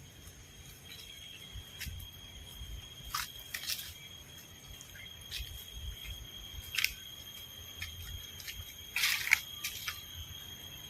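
Quiet outdoor ambience: a faint, steady high-pitched whine with scattered short clicks and ticks, a few of them close together about nine seconds in.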